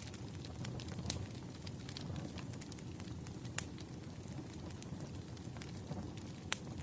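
Wood fire crackling: a steady low rumble of burning logs with scattered sharp pops. The loudest pops come about three and a half seconds in and near the end.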